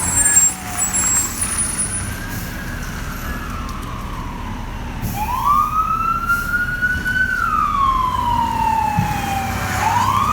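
Fire truck's mechanical siren, a Federal Q, winding up and slowly falling away. It is faint at first, then winds up strongly about five seconds in, sinks slowly, and starts winding up again at the end, over the truck's engine running.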